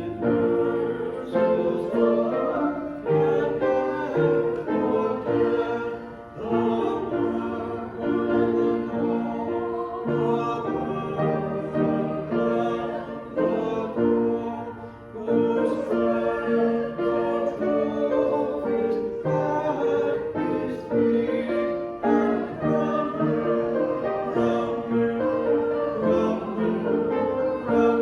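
Congregation singing a hymn with keyboard accompaniment, in sustained chords that change note by note throughout.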